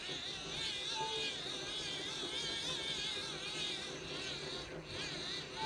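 Hand-crank dynamo of a Sony ICF-B88 emergency radio whining while being cranked to charge a phone, its pitch wavering up and down with the cranking speed. A few short beeps sound about a second in and again near the end.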